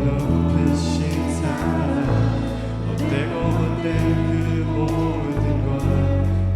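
Church praise team performing a worship song: several voices singing together over a band with bass and drums.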